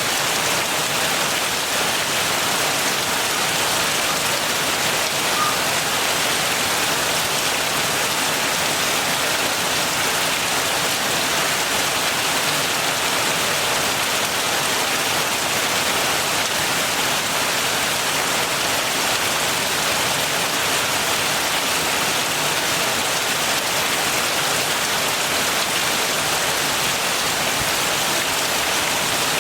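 Steady heavy rain falling, an even hiss of drops with no let-up.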